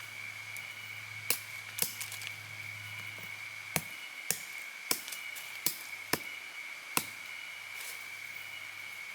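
A series of about eight sharp knocks, spaced irregularly half a second to a second apart, over a steady high-pitched hum.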